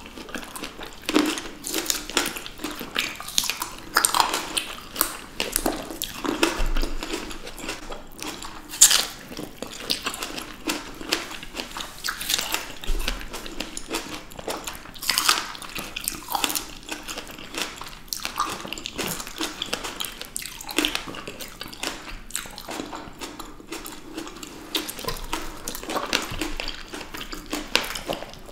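Close-miked chewing and biting of fresh green grapes and juicy strawberries by two people, with many short wet clicks and mouth noises.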